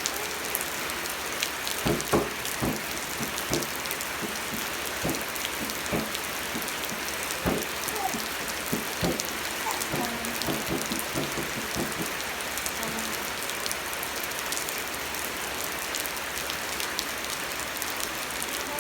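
Steady rain falling, with louder separate drops or drips striking a surface close by, frequent in the first twelve seconds and fewer after.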